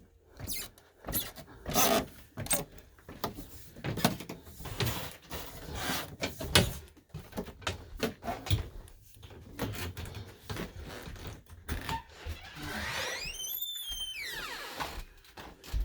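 Irregular knocks, thumps and rustling from handling. About thirteen seconds in comes a squeak that rises and then falls in pitch.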